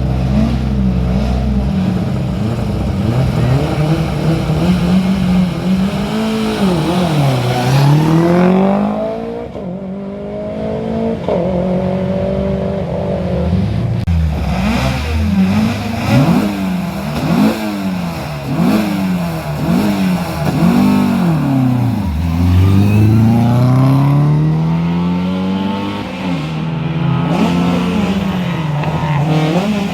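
Historic rally cars' engines revving hard on a stage, the pitch climbing through each gear and dropping at every shift. Near the middle come a string of quick rises and falls, about one a second, as the engines brake and downshift into corners.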